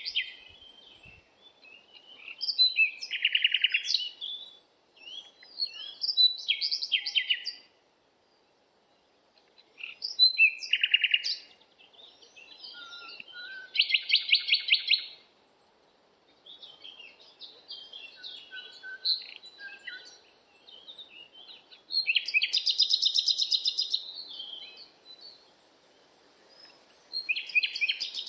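Several forest birds calling and singing in turns, with short chirps, whistled glides and fast rattling trills, over a faint steady hiss of flowing water.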